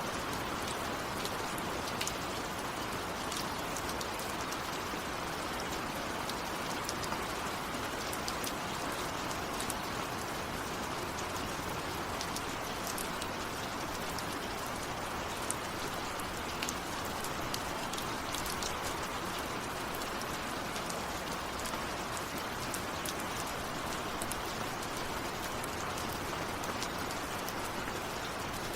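Steady rain falling: a dense even hiss with many scattered sharp drop ticks.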